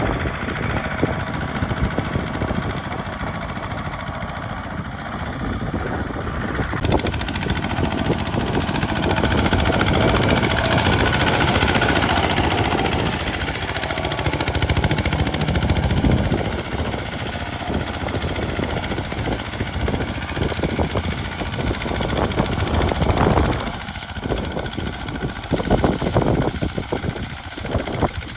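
Kubota RT single-cylinder diesel engine on a homemade walking tractor, chugging steadily under load while plowing, with a rapid knocking pulse. It grows louder in the middle and eases back later on.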